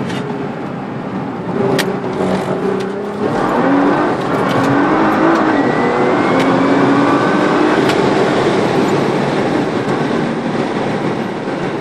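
Nissan GT-R's twin-turbo V6 heard from inside the cabin under hard acceleration on track. The engine note climbs, drops back at gear changes about three and five and a half seconds in, then climbs again, getting louder after the first change.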